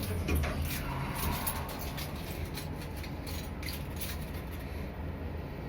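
Elevator running with a steady low mechanical hum, with a scattered run of light clicks and rattles in the first few seconds.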